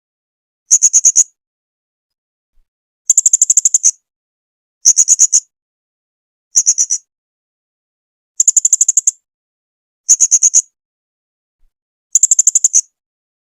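Blue-crowned hanging parrot (serindit) calling. It gives seven short bursts of rapid, very high-pitched notes, about eight to ten notes per burst. The bursts repeat every one and a half to two seconds, with silence between them.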